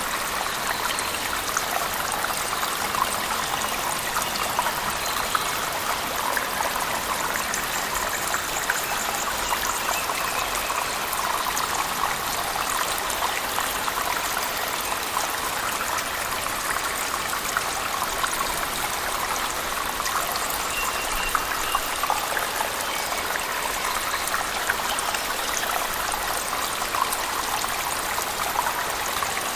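Cave waterfall and heavy rain: a steady rush of falling, splashing water, thick with small drop splashes, unchanging throughout.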